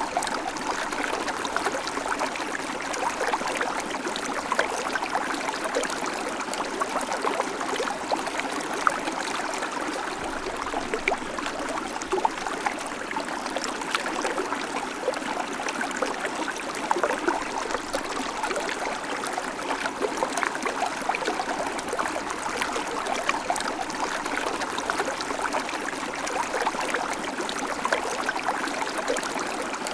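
Shallow creek babbling over stones: a steady rush of running water, full of small splashes and trickles.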